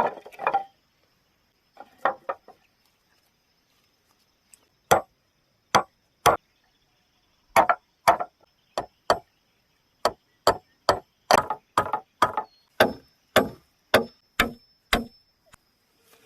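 Sharp chopping blows on bamboo, a few scattered strikes at first, then a steady run of about two strokes a second for some ten seconds.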